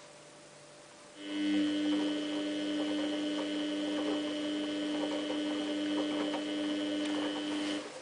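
Samsung WF8804RPA washing machine running with a steady electrical hum that starts about a second in and cuts off suddenly near the end.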